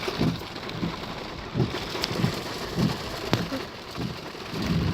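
Rain falling steadily in a thunderstorm, with irregular dull low knocks and one sharp click about two-thirds of the way through.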